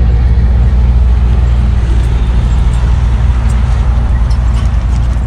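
A motor vehicle engine running steadily, a loud low drone.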